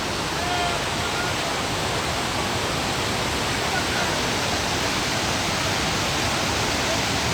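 Steady rush of a fast mountain river, with faint distant voices now and then.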